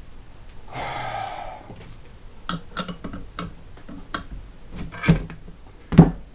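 A scraping sound about a second in, then a run of irregular sharp clicks and taps, typical of metal parts and hand tools being handled, with two louder knocks near the end.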